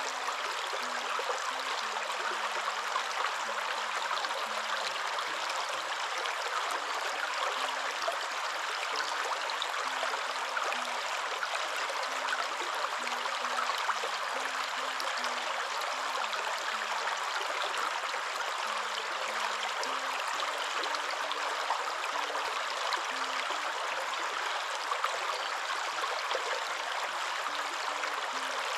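Waterfall: a steady rush of falling water, an even hiss with little deep rumble.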